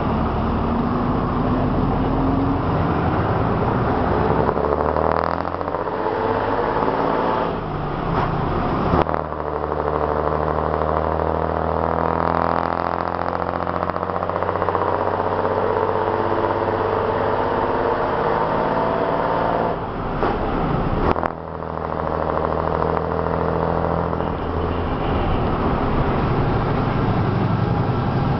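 City bus engine pulling hard up a bridge ramp, its note climbing steadily. The rising note breaks off twice, about nine seconds in and again about twenty-one seconds in, then climbs again.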